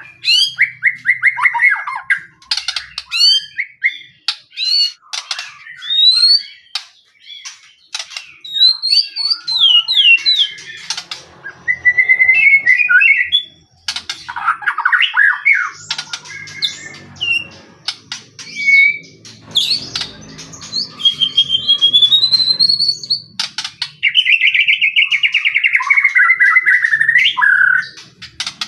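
White-rumped shama in full, persistent song. It gives a continuous run of loud, varied phrases: rapid trills, rising and falling whistled slurs and harsh, buzzy notes, with short pauses between them.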